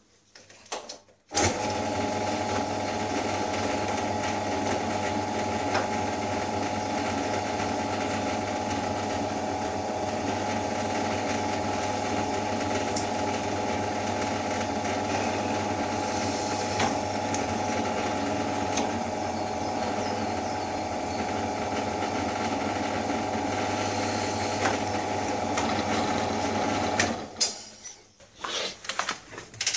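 Electric drill motor starts about a second in, runs at a steady speed for some 25 seconds, then stops; a few light clattering knocks follow near the end.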